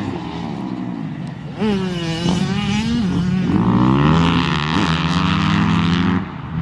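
Dirt bike engine revving up and down through the gears as it rides the track, getting loud about one and a half seconds in and dropping away near the end.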